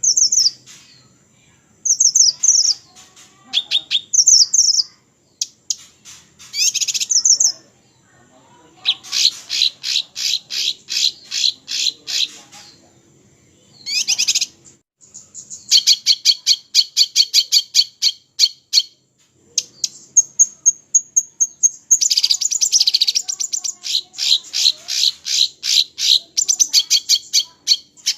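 Small songbird singing high-pitched: short chirped phrases at first, then long, fast trills of rapidly repeated sharp notes lasting a few seconds each, three runs in all.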